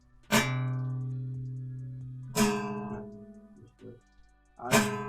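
A plucked string instrument struck three times, about two seconds apart. Each note rings out and fades slowly, and the middle note is higher than the other two.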